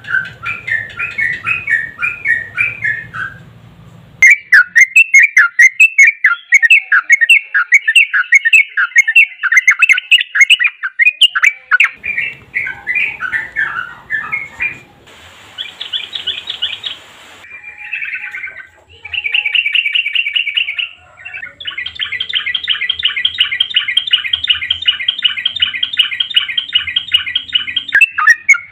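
Yellow-vented bulbul (trucukan) singing loud, fast, chattering phrases. Several recordings are spliced together with abrupt changes, and for the last six seconds or so it gives one long, rapid, even trill.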